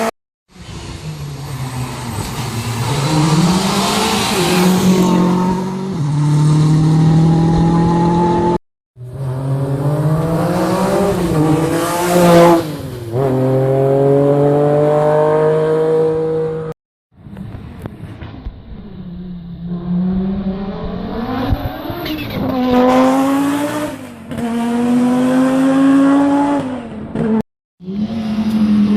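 Rally cars at full stage speed, engines revving hard with pitch climbing and then dropping at each gear change. It comes as four separate passes, each one cut off abruptly.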